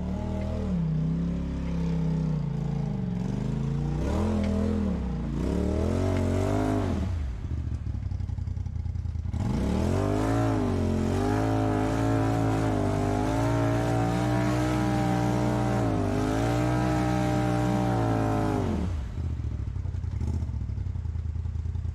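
Off-road vehicle's engine revving on a rock climb, in several short revs, then held high for about nine seconds before dropping back to idle.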